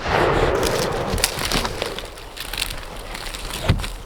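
Loud rustling and crackling, like dry brush and leaves being pushed through, strongest for the first second and a half, then scattered snaps, with one sharp thump near the end.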